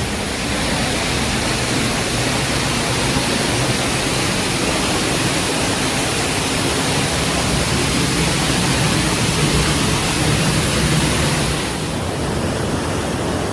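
Marmot Creek Falls: a mountain waterfall's water rushing as a loud, steady roar close by, easing slightly near the end.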